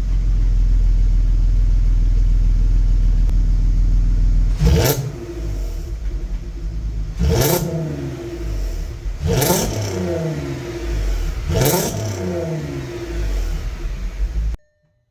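Volkswagen Golf Mk5 R32's 3.2-litre VR6 exhaust idling steadily, then blipped four times, each rev rising sharply and falling back to idle. The sound cuts off abruptly near the end.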